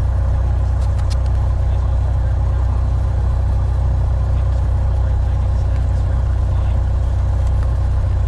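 Piper Warrior's four-cylinder engine and propeller droning steadily, heard from inside the cabin.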